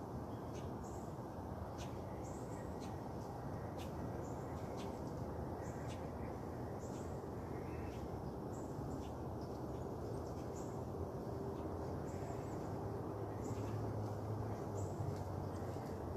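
Birds calling outdoors: short high chirps repeating about once a second over a steady low rumble of background noise.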